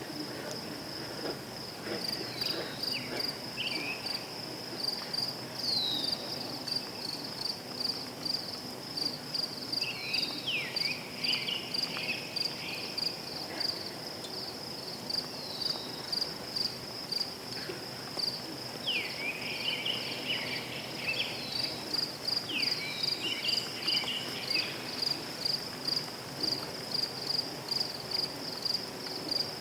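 Crickets chirping in a steady, even pulse, with short high calls now and then that drop in pitch and break into a brief warble.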